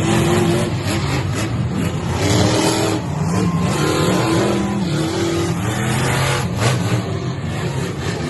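Monster truck engine revving, its pitch rising and falling several times.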